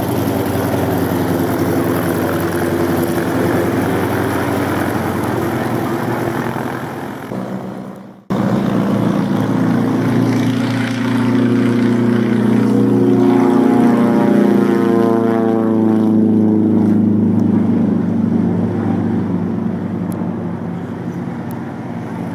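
Spartan 7W Executive's nine-cylinder Pratt & Whitney R-985 Wasp Junior radial engine and propeller running at high power for take-off, a loud steady drone. The sound drops away and breaks off sharply about eight seconds in, comes back loud, then fades slowly toward the end.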